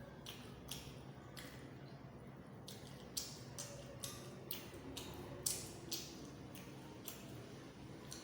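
Close-miked eating sounds: wet chewing and lip smacks in an irregular run of sharp clicks, two of them louder, about three and five and a half seconds in.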